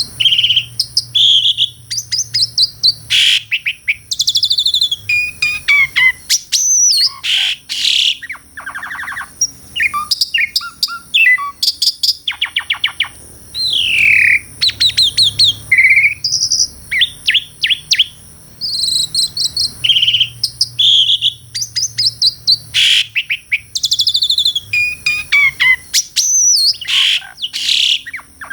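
Javan pied starling (jalak suren) singing: a long, varied run of loud whistles, gliding notes and fast rattling trills, broken by short pauses. A steady high ringing runs beneath it.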